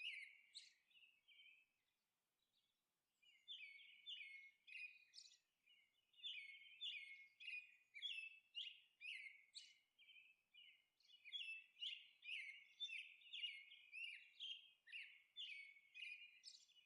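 Faint birds chirping: quick, high chirps in runs, with a pause early on and another partway through.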